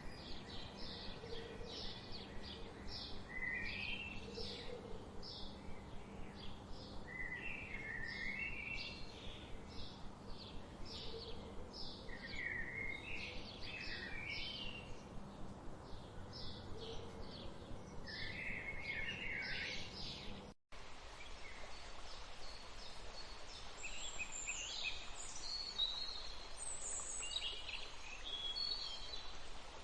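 Songbirds singing, with many short chirps repeated in quick succession. About two-thirds of the way through, the sound drops out for an instant and a different recording follows, with higher, sweeping bird notes.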